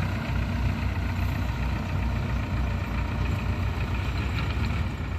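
Diesel tractor engine running steadily with a low, even pulse.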